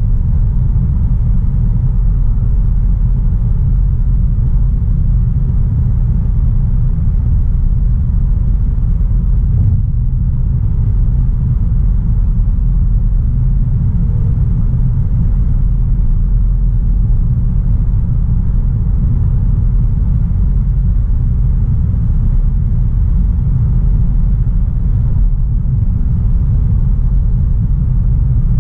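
A 2016 Audi A3 Sportback 1.4 TFSI (a turbocharged four-cylinder petrol with a 7-speed DSG) being driven at a steady pace, giving a continuous low rumble of engine and road noise. There are no clear rises or drops in engine speed.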